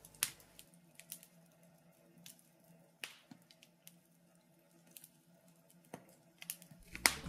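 Wood fire crackling in a fireplace: irregular pops and snaps a second or so apart, the loudest near the end.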